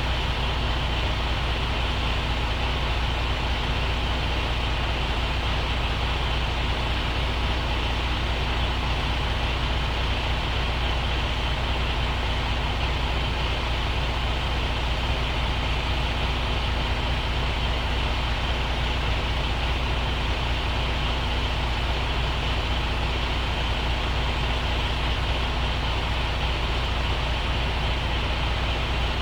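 Diesel engine of a semi truck running steadily, a constant low hum that holds unchanged throughout.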